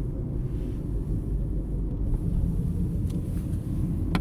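Steady low rumble of a car driving on a highway, heard from inside the cabin: engine and tyre noise with no other distinct events.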